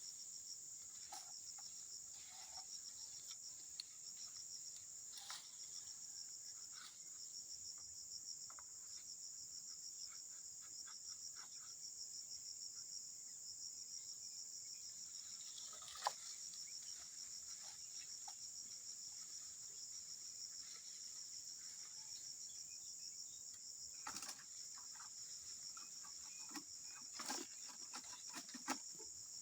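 Steady high-pitched insect chorus with a fast even pulse in the undergrowth of an oil palm plantation, with scattered short rustles and knocks, one sharp click about halfway and a cluster near the end.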